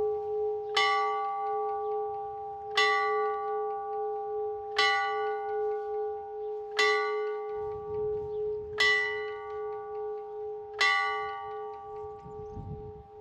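A single church bell tolling, struck once every two seconds, with six strikes in all. Each stroke rings out and fades, while the bell's low hum carries on between strikes.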